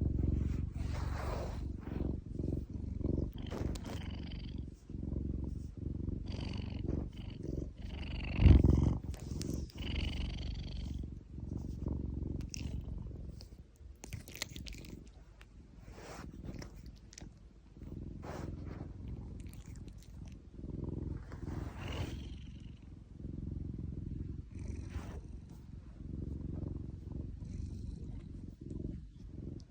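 A domestic cat purring continuously as its paw is stroked, with scattered rustling noises over the purr and one loud bump about eight and a half seconds in.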